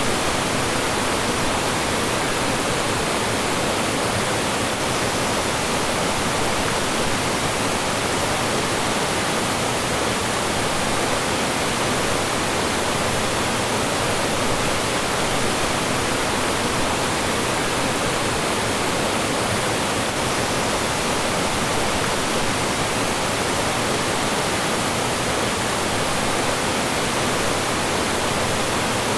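Mountain stream rushing and splashing over rocks and small falls, a steady, even rush of water.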